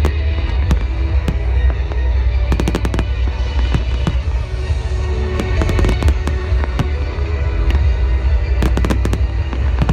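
Fireworks going off: clusters of sharp bangs and crackles about two and a half seconds in and again near the end, over a heavy low rumble, with music playing underneath.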